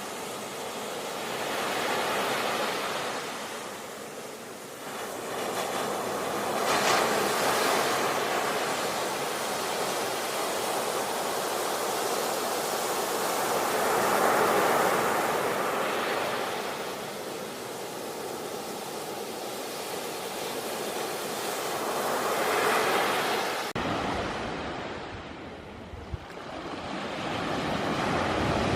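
Rushing water: a steady hiss of surf or falling water that swells and fades every few seconds. About 24 s in it changes abruptly to a duller-sounding stretch with less hiss.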